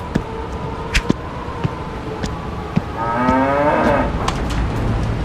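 A cow moos once for about a second, about three seconds in. Before it come a few sharp clicks, and a steady low rumble runs underneath.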